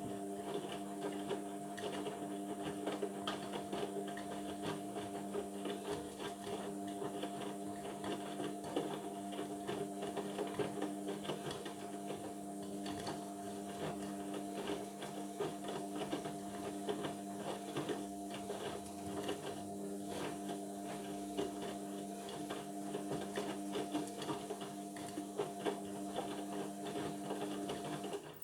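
Indesit washing machine running mid-cycle: a steady motor whine made of several held tones, with constant rattling and clicking over it. It stops abruptly near the end.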